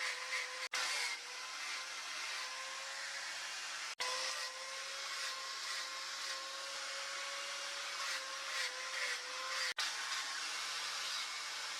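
Electric power tool motor running steadily with a high whine and a hiss. It cuts out for an instant three times.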